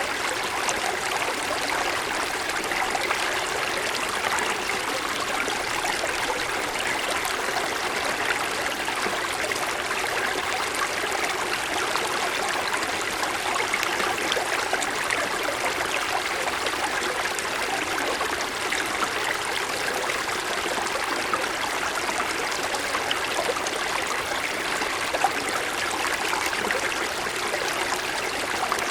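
Small mountain stream flowing over snow-covered stones: a steady rush of water with fine trickling and splashing, with little deep rumble.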